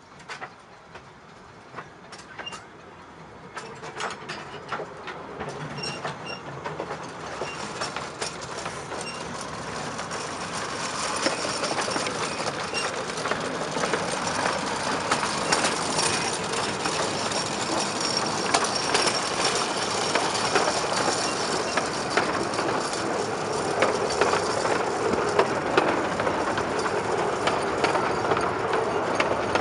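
Fairbourne Railway 12¼-inch-gauge miniature train approaching, growing louder over the first ten seconds or so, then running steadily close by with its wheels clicking over the rail joints.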